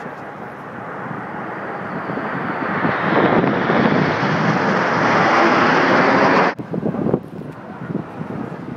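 Red Arrows' BAE Hawk jets flying past: a rushing jet noise that builds over the first few seconds and is loudest from about three seconds in, then cuts off suddenly about six and a half seconds in.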